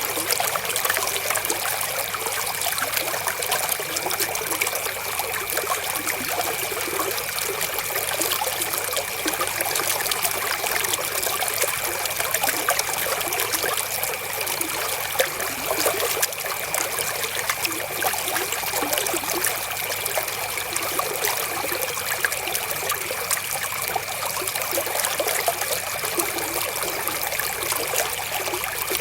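Flowing river water, a steady trickling rush with no let-up.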